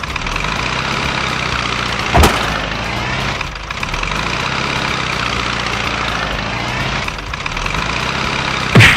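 Truck engine sound effect running steadily, with a short loud hit about two seconds in and two more loud hits close together near the end.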